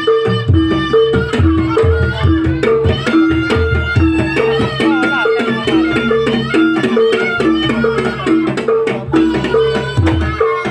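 Javanese jaranan trance-dance music: hand drums with a two-note metallic ostinato alternating evenly about twice a second, and a reedy slompret-like melody gliding above.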